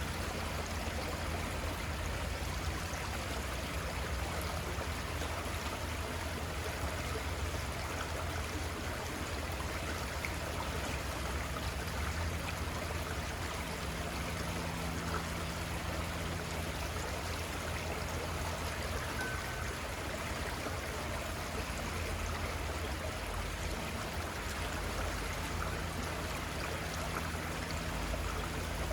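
A small river flowing, a steady rushing and trickling of water over the riverbed, with a low steady rumble underneath.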